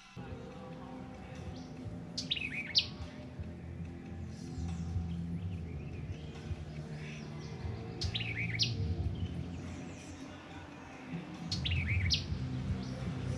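A songbird calling: a sharp, fast down-swept whistle ending in a quick upturn, repeated three times a few seconds apart, over a low steady hum.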